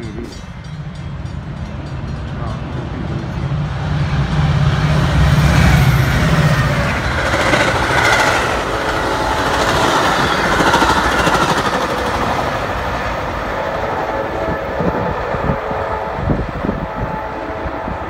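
Metra commuter train passing at speed behind two diesel locomotives, an MP36 and an F40PH-3. A deep engine rumble builds as the locomotives come up and go by, loudest about five to six seconds in. Then comes a rushing of wheels on rail as the bilevel coaches pass, slowly fading as the train moves away.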